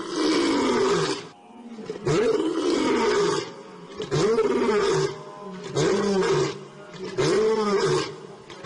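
An animal calling again and again: about five drawn-out calls, each roughly a second long and rising then falling in pitch, with short pauses between them.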